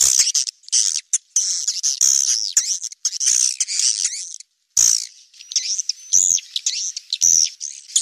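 Many swiftlets chirping and twittering fast, high calls overlapping one another, broken by a brief silence about halfway through.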